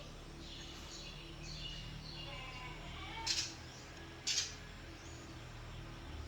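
Glossy swiftlets twittering in high chirps, with two short, harsh, buzzy calls about three and four seconds in.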